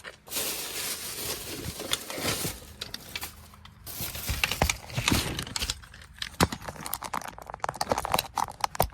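Rummaging: rustling and crinkling as things are moved about, in two stretches, then a run of scattered small clicks and knocks near the end.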